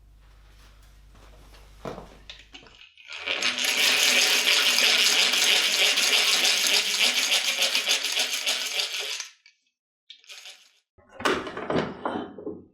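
Dense, fine metallic rattling for about six seconds that stops abruptly, followed by a few short clinks and knocks: metal parts of a cast-iron bread slicer being handled during reassembly.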